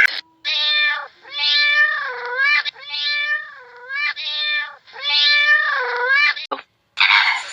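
Domestic cat meowing over and over, each meow a drawn-out call that rises and then falls in pitch.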